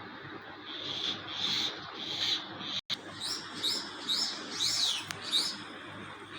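Small birds chirping in short, high calls. After a brief gap about three seconds in, a run of quick rising chirps follows, two or three a second.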